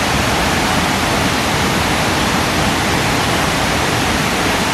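Large waterfall's water crashing down, a loud, steady rush.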